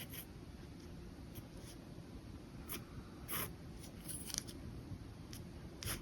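Pen nib scratching on paper in a few short, separate strokes, over a steady low background hum.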